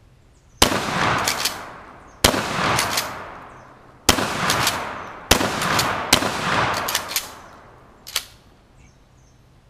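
Five shots from a pump-action 12-gauge shotgun in quick succession, the gaps shortening to under a second, each shot followed by a long echoing tail. Shorter sharp cracks come between the shots and once more near the end.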